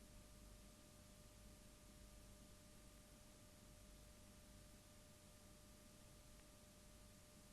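Near silence: a faint steady hiss with a thin, constant hum tone.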